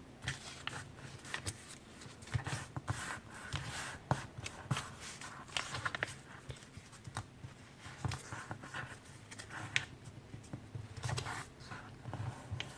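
A sheet of printer paper being folded and creased by hand: irregular soft crinkles, rustles and small taps, over a faint steady low hum.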